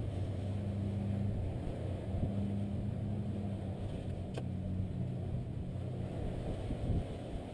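A motor vehicle's engine running with a low, steady hum that eases off near the end, and one sharp click a little past four seconds in.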